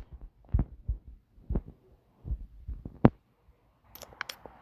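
Scattered dull thumps and knocks, one every half second to a second, with the sharpest about three seconds in and a few sharp clicks near the end.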